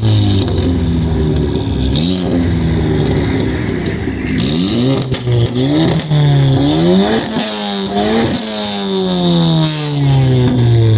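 Performance car engines revving hard in a rev battle, the pitch sweeping up and dropping back again and again, at times two engines rising and falling against each other. There are sharp cracks among the revs.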